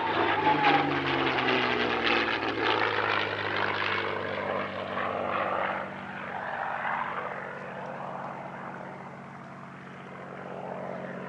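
P-51D Mustang's Packard Merlin V-12 engine and propeller on a fly-past, the engine note falling in pitch as it passes, loud for the first six seconds or so and then fading as it draws away.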